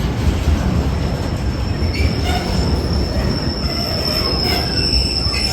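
Train running over the level crossing: a steady low rumble, with a high, thin wheel squeal setting in about a second in and holding.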